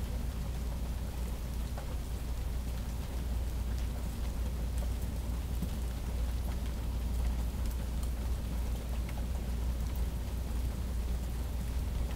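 Steady rain falling during a thunderstorm: an even hiss with many small drop ticks over a steady low rumble. No single thunderclap stands out.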